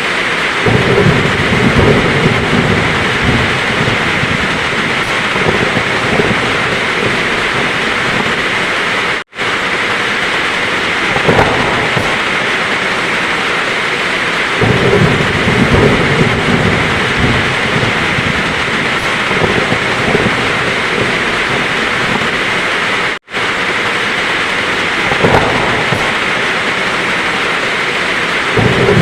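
Heavy rain falling steadily with rolls of thunder rumbling low about every fourteen seconds. The sound cuts out completely for an instant twice.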